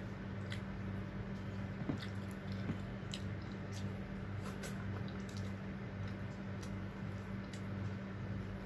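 Close-miked eating sounds: wet chewing with scattered small clicks, over a steady low electrical hum.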